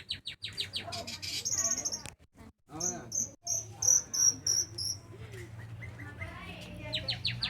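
Sooty-headed bulbul (kutilang) singing a varied, unusual song: quick runs of rapid repeated notes, a string of clear high whistles about three seconds in, and warbling lower phrases, over a faint steady hum.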